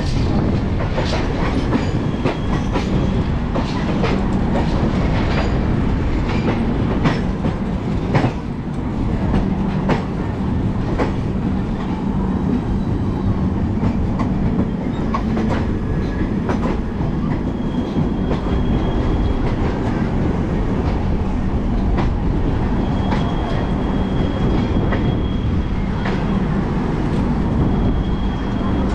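Indian Railways express train running along the line, a steady rumble with wheels clicking over the rail joints. Brief faint high whines come and go in the second half.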